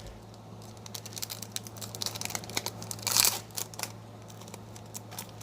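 Foil Pokémon booster pack wrapper crinkling in the hands and being torn open, with a louder rip a little over three seconds in.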